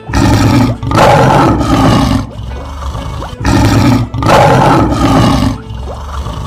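Lion roar sound effect heard twice, each roar loud and lasting about two seconds.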